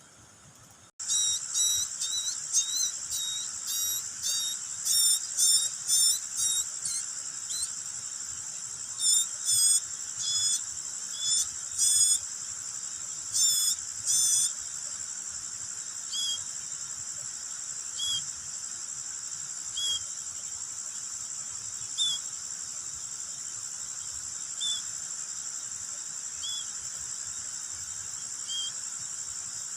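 A nestling bird cheeping in short, high, upward-flicking calls, several a second at first and then about one every two seconds, over a steady, high, cricket-like trill that starts abruptly about a second in.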